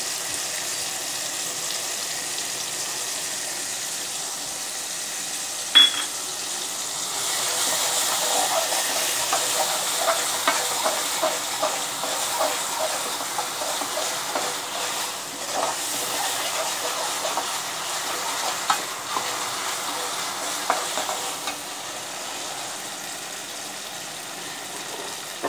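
Onion-tomato masala sizzling in oil in a steel kadai while a spoon stirs it, with scattered scrapes and clinks of the spoon on the pan and one sharp clink about six seconds in. The sizzle grows louder for a stretch in the middle.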